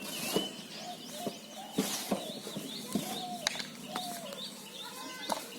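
Birds calling, with many short repeated chirps and a few lower falling calls, broken by a few sharp clicks.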